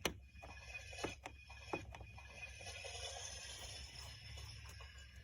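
Small plastic toy-kitchen pieces clicking and knocking several times in the first two seconds, over a faint steady hiss.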